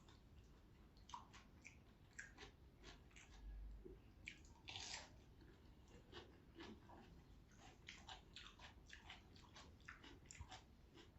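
A person chewing a mouthful of food close to the microphone: faint, irregular wet mouth clicks, a few a second, with a slightly longer crunch about five seconds in.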